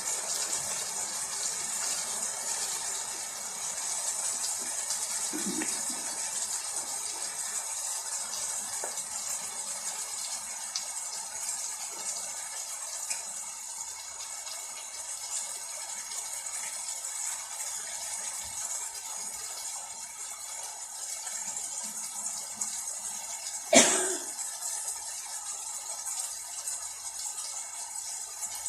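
Vegetables frying in a paella pan, a steady sizzle. One sharp knock a little after three-quarters of the way through.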